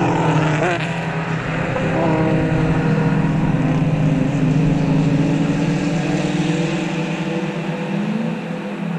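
Race car engines running past the corner, a steady engine drone with short pitch changes in the first two seconds, fading slowly toward the end.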